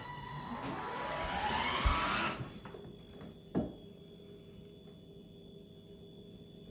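A small electric motor whirs and rises steadily in pitch for about two seconds, then cuts off abruptly. A single click follows about a second later.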